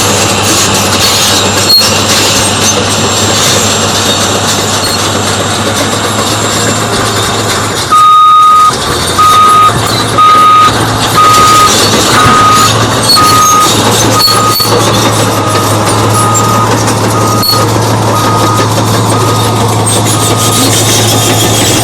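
Cat D8T bulldozer's diesel engine running steadily under load. About eight seconds in, its backup alarm starts beeping roughly once a second as the dozer reverses, loud at first and then fainter.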